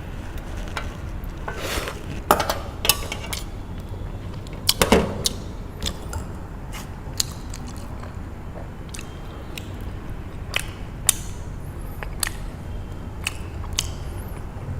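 Close-miked eating of Korean spicy noodles: scattered clicks of utensils and mouth sounds, with louder bursts about two seconds in and again about five seconds in, over a steady low hum.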